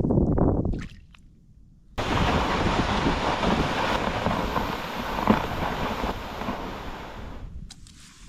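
Blizzard wind rushing in a steady noisy wash that cuts in suddenly about two seconds in and eases off near the end.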